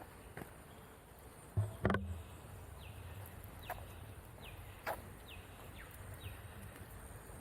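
A bird calling a series of short, high whistled notes that slide downward, repeated just under a second apart. A couple of knocks come about two seconds in.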